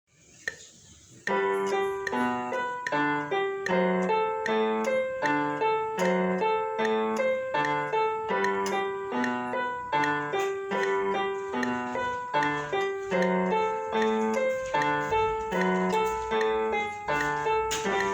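Piano playing a gato, the Argentine folk dance, in a lively even rhythm of alternating low bass notes and chords under a melody. It starts about a second in.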